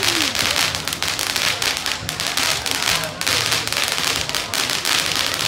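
Consumer fireworks: a ground fountain spraying sparks in the street, giving a continuous dense crackle of rapid pops over a steady hiss.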